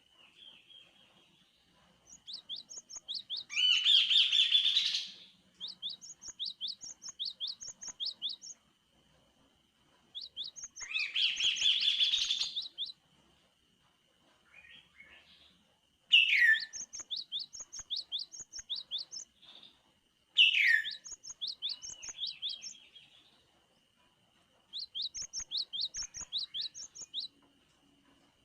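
Chestnut-capped babbler (kaso-kaso, tepus gelagah) singing: phrases of quick, high, evenly spaced notes repeated with short gaps, with two louder chattering bursts, one about four seconds in and one around eleven to twelve seconds, and sharp falling notes at about sixteen and twenty seconds. A thin steady high tone runs under much of it.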